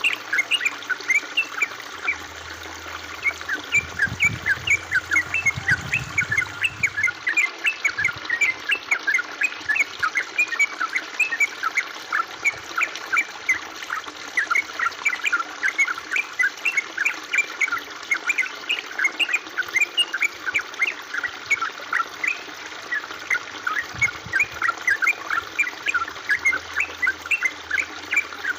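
Water trickling and gurgling steadily, with a dense, irregular patter of short, high bubbling plinks over a constant rushing hiss.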